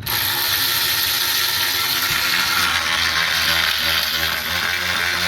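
Cordless 3/8-inch ratchet wrench's electric motor and gearing whirring under power. The sound starts abruptly, as the trigger is pulled, and runs on with a slightly wavering pitch.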